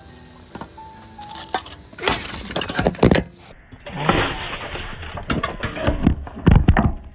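Clinking, crunching and clattering as smoking gear with cherry-wood chips is handled, with sharp cracks like something breaking, busiest in the second half.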